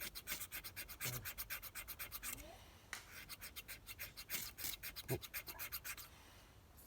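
A ferro rod scraped rapidly with a striker, several quick strokes a second, to throw sparks onto fatwood shavings for a fire. There are two runs of strokes with a short pause about two and a half seconds in, and the scraping stops about six seconds in.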